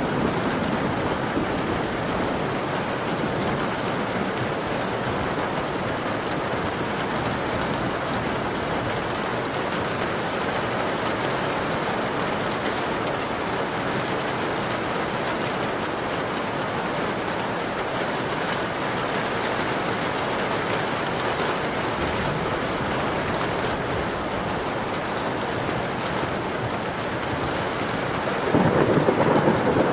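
Steady rain pattering on a window pane. Near the end a louder, deeper rumble of thunder sets in over the rain.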